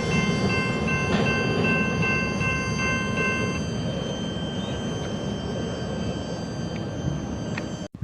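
A train rolling past with a steady rumble of wheels on rail. Several high, steady ringing tones sound over it and stop about three and a half seconds in. The sound cuts off abruptly near the end.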